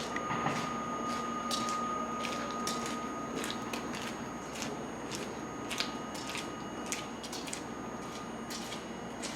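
A steady high electrical whine and a low hum from a stationary subway train, the whine fading out near the end, with scattered sharp clicks and ticks throughout.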